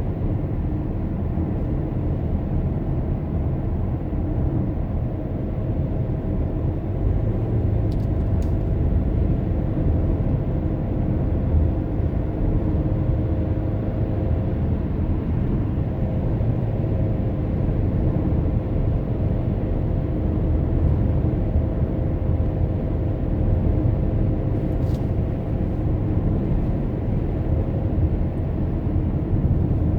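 Car driving on the road: a steady low rumble of tyres and engine, with a faint steady hum above it and two brief faint ticks.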